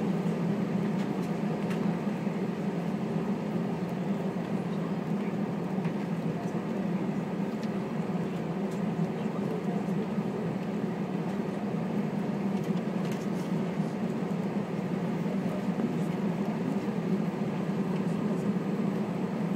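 Steady cabin noise inside a taxiing Airbus A320, the engines running at low taxi thrust with a low hum, and a few faint clicks of rattle.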